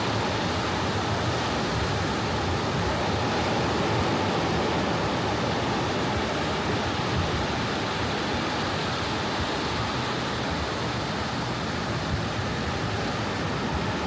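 Soft ocean waves washing on a beach: a steady, even rush of surf with no single break standing out.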